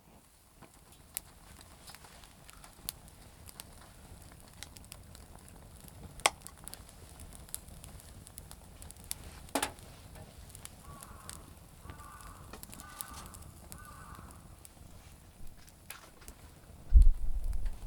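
Campfire of damp firewood burning: scattered sharp pops and crackles over a low steady rumble. Loud low thumps come in about a second before the end.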